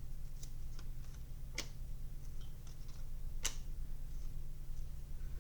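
Trading cards being handled and flipped through: a few sharp clicks about a second or two apart, with fainter ticks between them, over a steady low hum.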